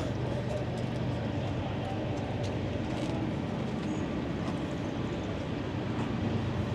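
A running engine's steady low rumble, holding an even level with no rise or fall.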